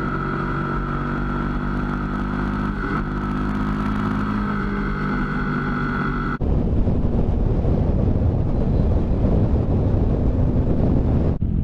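Motorcycle engine running at steady cruising revs, with wind rushing over the microphone. About six seconds in the sound cuts abruptly to a rougher, noisier mix of engine and wind.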